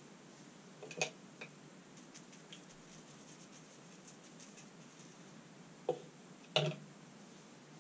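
A few light clicks and taps of small metal parts of an air-suspension compressor being handled during reassembly: one about a second in with a softer one just after, then two more near the end, the last the loudest.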